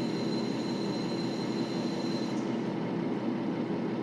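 KiHa 40 series 2000-subseries diesel railcar running: a steady drone from the engine and the wheels on the rails. A thin high whine over it stops about two and a half seconds in.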